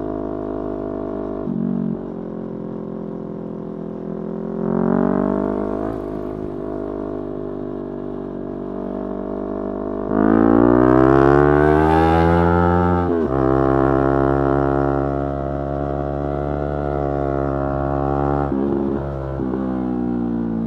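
Yamaha R3's parallel-twin engine under way, its revs rising and falling. About halfway through it climbs hard, then drops sharply, as at a gear change. It holds steady for several seconds, then dips briefly near the end and starts to rise again.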